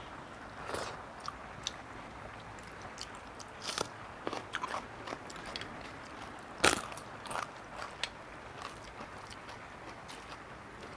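Close-miked eating sounds: chewing with scattered crisp crunches and wet mouth clicks, the loudest a single sharp crunchy bite about two-thirds of the way through.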